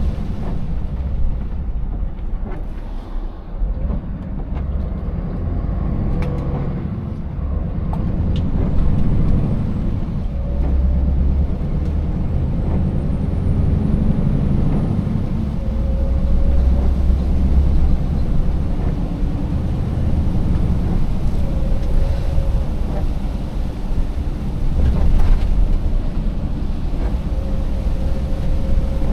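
Scania 590S truck's V8 engine running as the truck drives, a steady deep rumble mixed with road noise, with a few brief knocks as it rides over the broken road surface.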